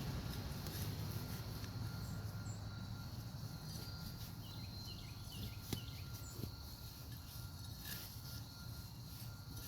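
Outdoor ambience: a bird chirping a quick series of short falling notes about halfway through, over a steady high insect drone and a low rumble, with a couple of soft knocks.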